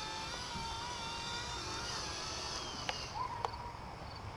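Small RC ERA EC-135 electric model helicopter whining in flight, the pitch wavering, then dying away about three seconds in as it comes down on a low battery. A few light clicks follow.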